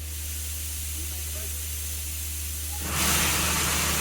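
A locomotive hissing at a steady level, then jumping suddenly much louder about three seconds in and holding steady.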